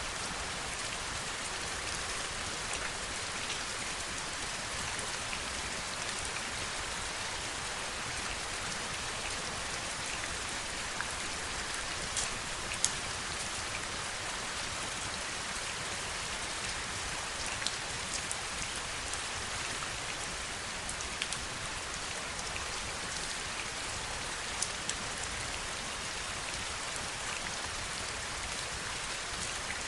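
Steady rainfall: a constant hiss with the occasional sharper, louder drop hit.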